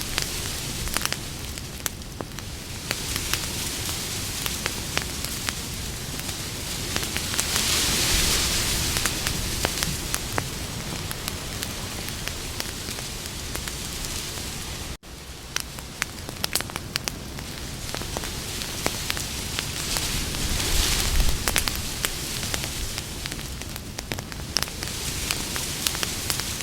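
Campfire burning: many sharp crackles and pops from the burning wood over a steady hiss, swelling louder twice. The sound cuts out for an instant about halfway through.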